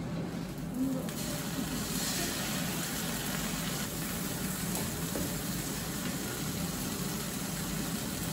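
Food frying in hot oil: a steady sizzle, its hiss coming in suddenly about a second in and then holding.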